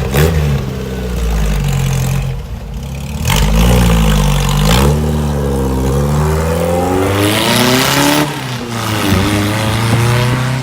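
Freshly rebuilt air-cooled VW flat-four engine in a 1971 bus running and being revved up and down several times, its pitch rising and falling.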